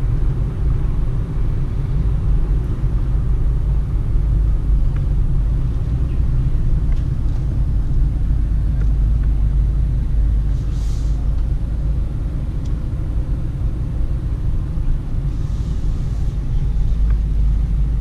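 Cabin noise of a Peugeot Partner driving gently on a narrow road: a steady low rumble of engine and tyres, with two faint brief hisses about halfway through and a few seconds later.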